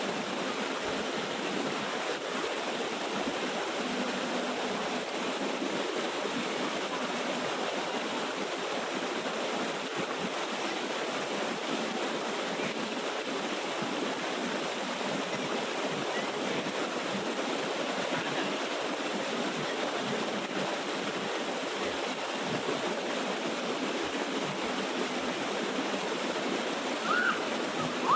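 Steady rush of a small waterfall's water falling and running over rocks.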